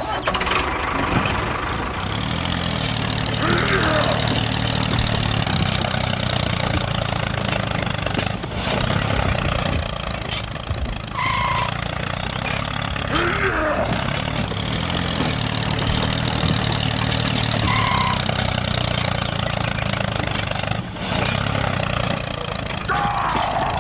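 A vehicle engine running steadily, with short higher chirps that recur about every ten seconds.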